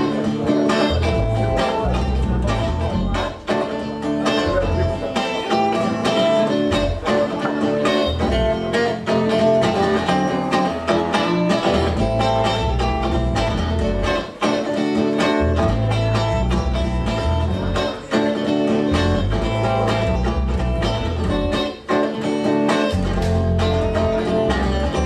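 Acoustic guitar strummed in a steady rhythm, with violin, playing an instrumental introduction before the vocals come in.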